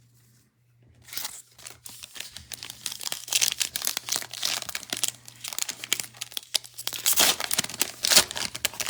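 Foil trading-card pack wrappers being torn open and crinkled in the hands. A dense crackling starts about a second in and grows loudest near the end.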